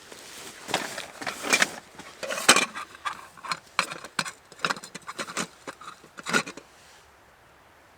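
Irregular knocks, clicks and scrapes of objects being handled, stopping about seven seconds in.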